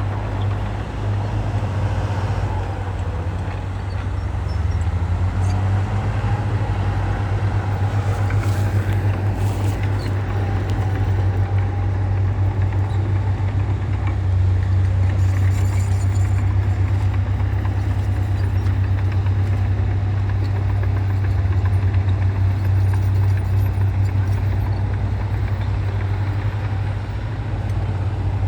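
Heavy diesel earthmoving machinery running steadily, with a deep, constant engine hum. A faint whine wavers up and down for a few seconds near the middle.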